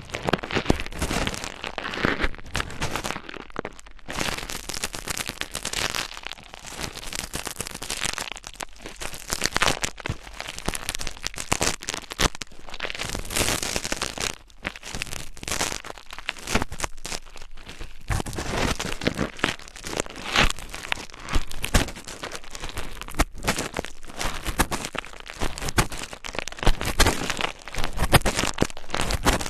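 Dense, irregular crackling and scratching close to the microphone, a rapid run of small clicks and rustles typical of ASMR scratching triggers.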